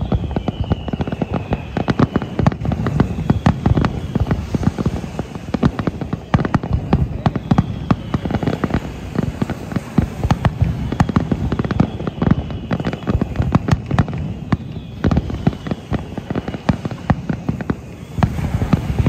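Aerial fireworks display: a rapid, continuous barrage of shell bursts and crackling, many bangs a second, with faint falling whistles here and there.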